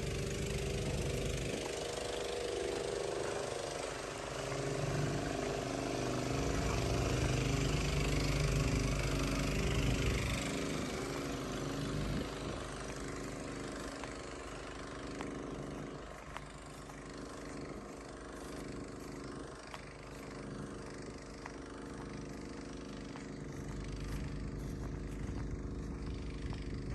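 A vehicle engine running steadily while driving, with rumbling road and wind noise that swells and fades.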